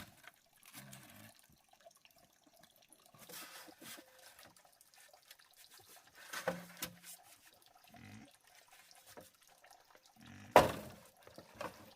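Water splashing and dripping in irregular bursts, with a sharp knock near the end.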